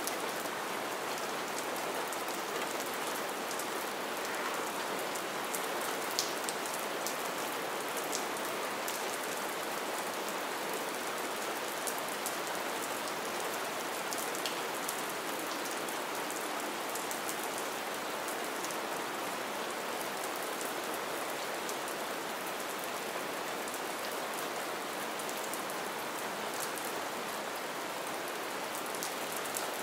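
Steady light rain: an even hiss with scattered sharp ticks of single drops.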